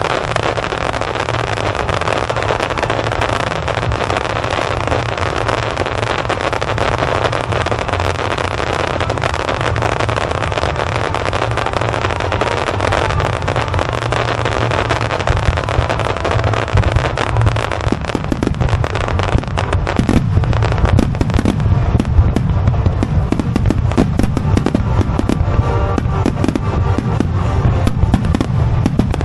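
Starmine fireworks barrage: shells bursting in quick succession with crackling, the bangs coming sharper and denser from about halfway through, over music from loudspeakers.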